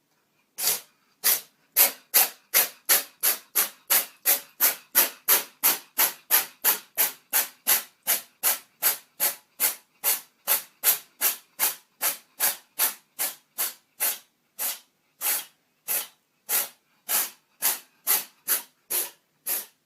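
Dog panting hard: a long run of short, even hissing breaths, about two and a half a second at first, slowing a little toward the end.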